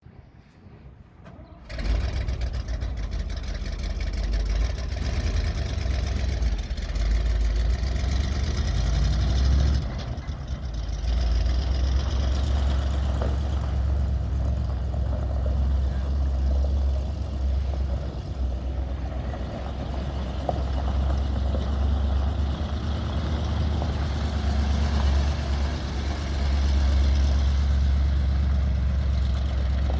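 1976 International Loadstar 1600 grain truck's gasoline engine catching about two seconds in, then running steadily at idle. Its level dips briefly about ten seconds in and swells again near the end.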